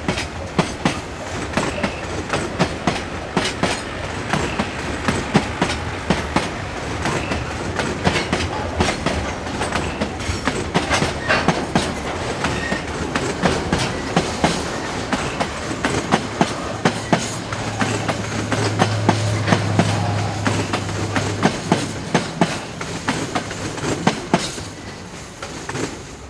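A train rolling past, its wheels clicking over the rail joints in a fast, continual clickety-clack, with a low engine hum swelling for a few seconds about two-thirds of the way through.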